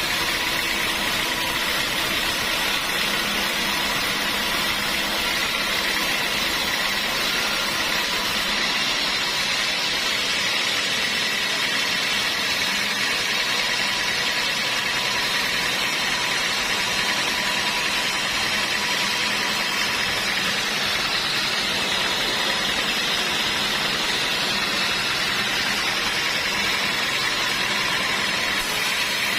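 Sawmill machinery running steadily: an unbroken machine drone with a few constant tones and no pauses or changes in level.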